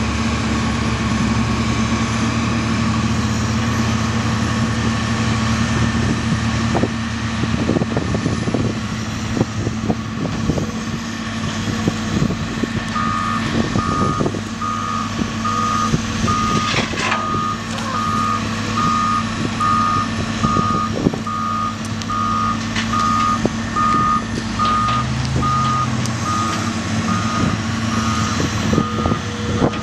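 Diesel engine of a heavy truck or earthmoving machine running steadily, with scattered knocks in the first half; a little before halfway a reversing alarm starts up, a steady repeating beep as the vehicle backs up.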